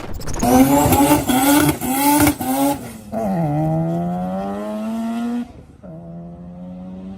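Car engine accelerating hard. The revs climb and drop back in several quick gear changes over the first three seconds, then climb slowly through one longer pull in a higher gear. Near the end the engine runs quieter and steadier.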